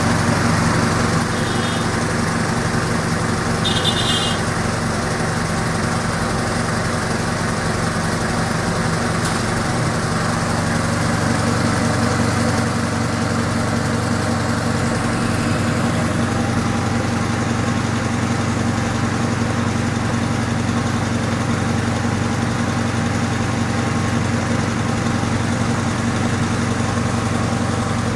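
Car-lift air compressor running steadily, with a constant engine-like drone.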